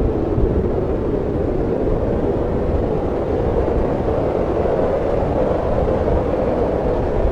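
Steady snowstorm wind: an even, low rushing noise that holds without breaks.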